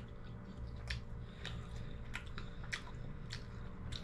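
Mouth sounds of a person chewing a bite of sausage link: soft, irregular clicks and smacks a few times a second, over a steady low hum.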